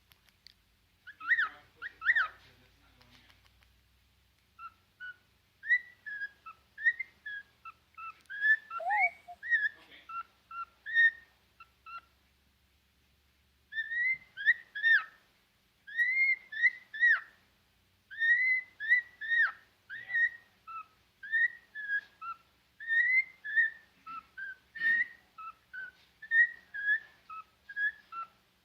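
Cockatiel whistling: a long run of short, clear whistled notes, each sliding up or down in pitch, broken by two brief pauses.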